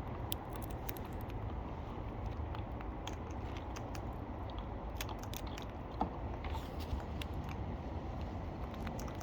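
A wild parrot cracking and chewing sunflower seeds: small irregular crunching clicks over a steady low rumble.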